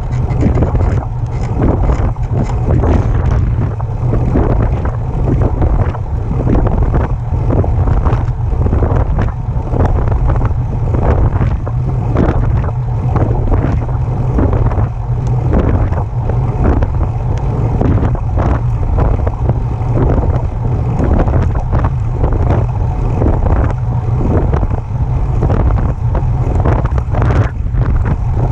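Specialized Turbo electric bike making a repeating noise in time with the pedalling, with a pulse about twice a second, over steady wind rumble on the microphone.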